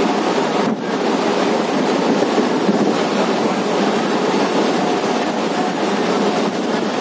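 Suburban electric local train running at speed, heard from on board: a steady rush of wheel and track noise mixed with wind, dipping briefly just under a second in.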